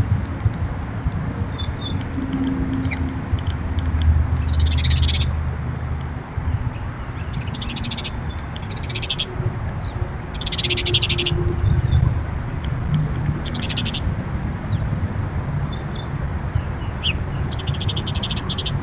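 Birds calling: about six short, rapid trills, each under a second long, over a steady low background rumble.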